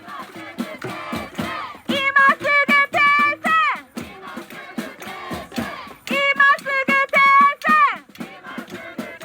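A high, loud voice chanting or singing a short phrase of quick, even syllables that ends in a falling slide, twice. Between the phrases, quieter voices of a crowd answer.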